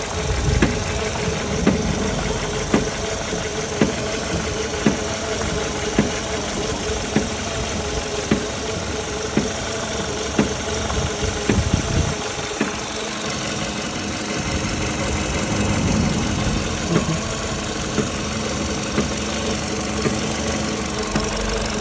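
Volkswagen Polo Sedan running, with a sharp click or knock repeating about once a second over a steady engine hum.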